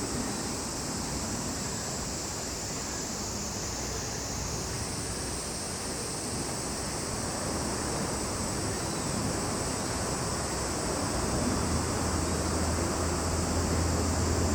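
Steady high-pitched chorus of summer insects with no break. Near the end a low engine drone comes in and grows louder.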